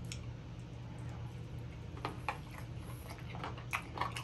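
A man chewing and handling a fried chicken wing: a few soft, sharp clicks and smacks in the second half, over a steady low hum.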